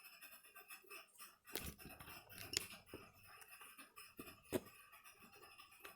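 Faint, scattered clicks and light taps of small tools and hard plastic and metal laptop parts being handled as the battery of a Dell Precision M3800 is worked loose.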